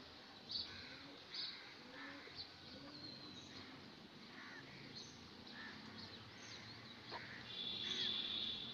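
Birds chirping in the background: short high chirps every second or so, and one longer call about eight seconds in, the loudest sound.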